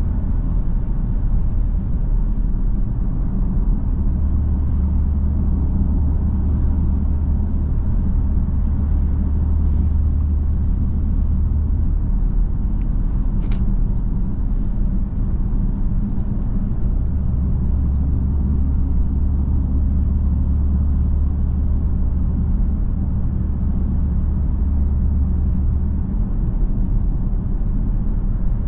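BMW M3 F80's 3.0-litre twin-turbo inline-six running steadily at a constant cruise, a continuous low drone mixed with road noise, with no revving.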